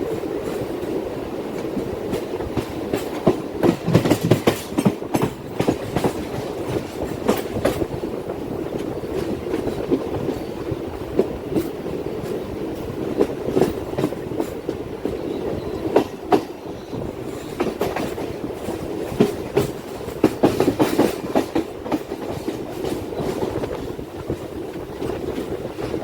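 Train running along the track, a steady rumble with frequent sharp wheel clicks and clacks over the rail joints.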